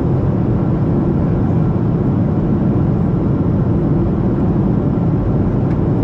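Steady low cabin noise inside a Boeing 737-700 in descent, the even drone of its jet engines and the rushing air outside, heaviest in the low range with no change in level.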